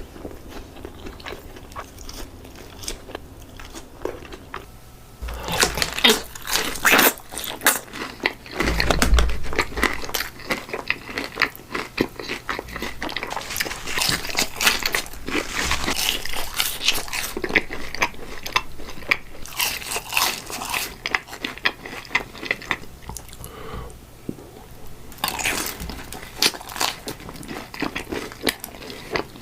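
Close-miked eating of Raising Cane's fried chicken fingers: crisp crunching bites in several bursts, with quieter chewing between them.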